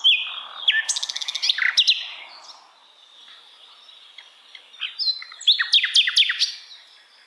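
Sikatan londo singing two phrases of sharp, varied whistles: the first with a fast rattling trill about a second in, the second near the end made of quick falling notes.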